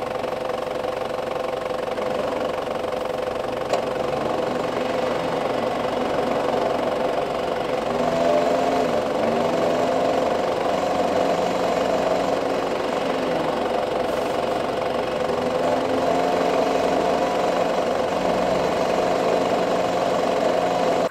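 Car engines running: one idles steadily close by, while a small hatchback stuck in snow revs up twice as it reverses under tow, its wheels spinning and spraying snow.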